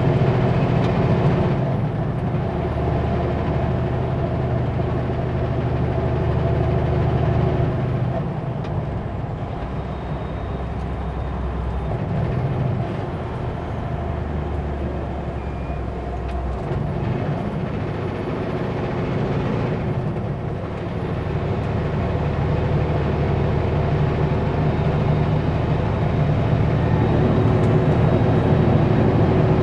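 Kenworth W900L semi truck's diesel engine running under way with road noise, its engine note shifting several times as it goes.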